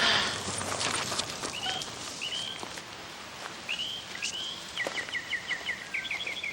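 Birds chirping over a steady outdoor hiss. Single downward chirps come and go, then about halfway through a fast run of chirps begins, at about five a second.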